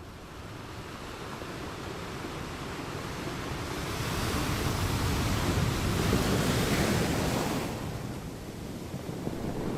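Ocean surf on a beach: a wave's rush swells to its loudest about four seconds in, falls away shortly before eight seconds, and the next wave begins to build near the end.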